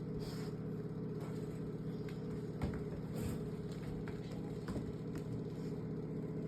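Steady low hum of a running motor, with a few faint knocks about two and a half, three and almost five seconds in.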